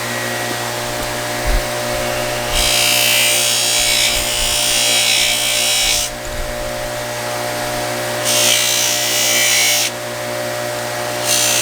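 Electric polishing wheel running steadily, with three stretches of louder rasping as a metal stove part is pressed against it. The wheel stops abruptly just after the last one.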